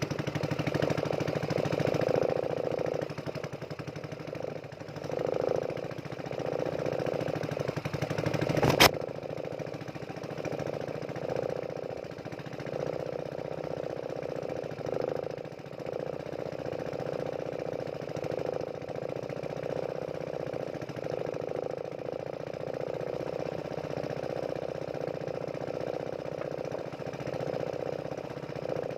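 Small fishing boat's engine running steadily with a rapid knocking beat while the longline is being set. A single sharp click about nine seconds in.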